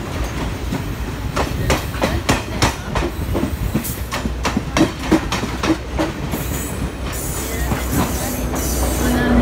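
Sri Lanka Railways Class S10 diesel multiple unit carriages passing close by: rumbling, with a quick run of sharp wheel clicks over the rail joints for several seconds. In the last few seconds the clicks give way to a high hiss that comes and goes.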